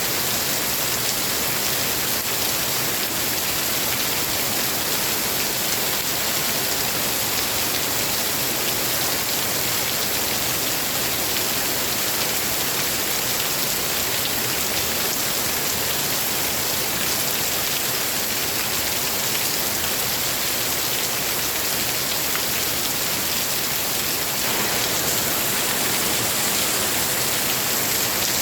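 Steady, heavy rain falling: a dense, even hiss that grows slightly louder near the end.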